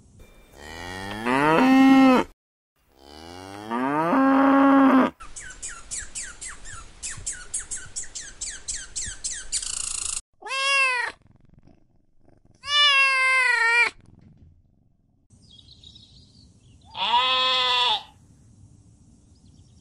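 A run of animal calls. First come two long calls that climb in pitch and then hold. Then a fast string of short chirps typical of a red squirrel's chatter, and then three separate bleats from a goat.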